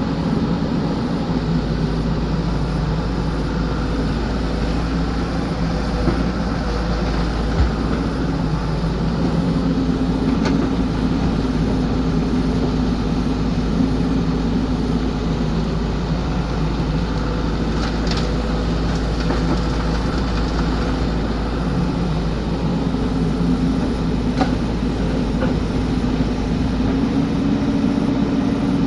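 XCMG excavator's diesel engine running steadily, its note rising and falling as the load comes and goes. A few short sharp knocks stand out over it.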